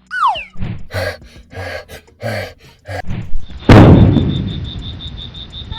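A short falling whistle, then a string of about five thumps, then a loud heavy boom about two thirds of the way in that rings out slowly, like edited cartoon-style sound effects.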